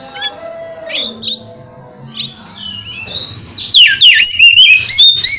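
Oriental magpie-robin singing: scattered short chirps at first, then about two-thirds of the way in a loud, fast run of whistled notes, each sweeping downward.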